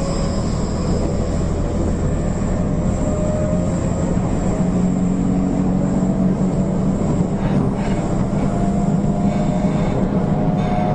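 JR Kyushu 813 series electric train running, heard from inside the passenger car: a steady low rumble of wheels and running gear with a faint motor whine that slowly rises in pitch. A few faint clicks from the rails come in the second half.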